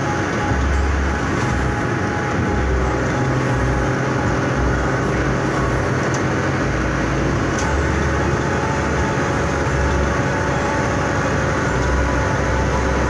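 Suzuki Karimun Wagon R's 1.0-litre three-cylinder engine pulling hard at high revs in fourth gear, heard from inside the cabin along with steady road and wind noise at high speed.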